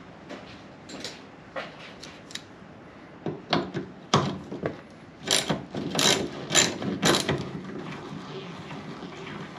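Hand tools and parts clicking and clacking in a Jeep's engine bay during disassembly, with a run of louder, sharp clacks about five to seven seconds in.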